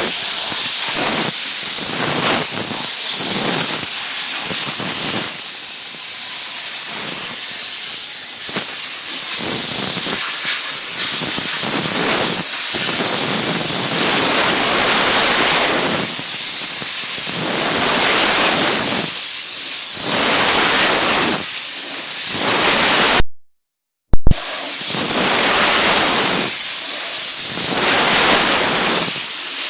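Steam cleaner wand jetting steam: a loud, steady hiss that swells and eases every second or two as it is worked. It cuts out completely for about a second roughly three-quarters of the way through.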